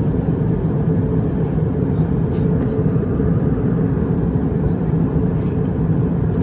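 Steady low drone of an Airbus A320 cabin in cruise: engine and airflow noise, even and unbroken, with a slight hum underneath.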